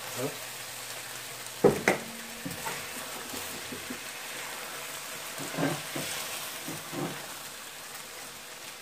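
Ground chicken and water chestnuts sizzling steadily in a stainless-steel skillet while a spatula stirs through it. The spatula scrapes and knocks on the pan a few times, loudest about two seconds in.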